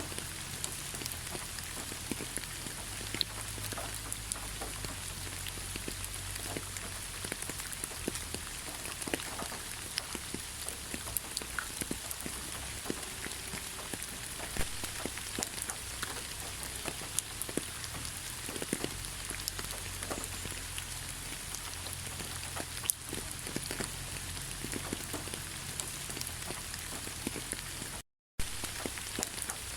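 Steady rain falling in a pine forest, with many separate drops tapping close by. The sound cuts out completely for an instant near the end.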